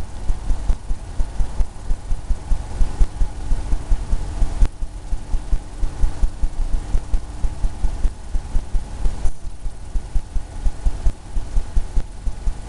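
Oil-paint brush dabbing and tapping against a canvas on an easel: a quick, uneven run of dull low thumps, several a second.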